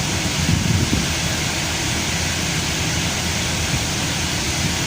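Chevrolet Camaro engine idling steadily, under a steady rushing hiss. The idle is even, no longer erratic after an idle relearn.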